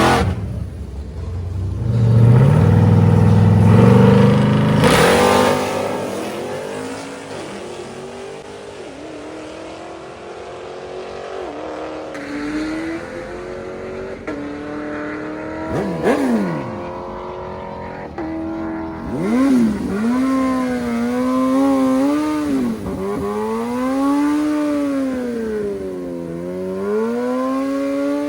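V8 muscle-car engines at full throttle in a drag race, climbing in pitch through gear shifts in the first few seconds, then fading as the cars pull away. In the second half a wailing tone rises and falls over and over, every two seconds or so.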